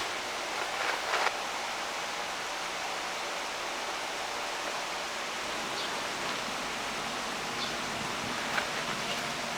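Steady rush of a mountain stream, with a couple of faint knocks about a second in and near the end.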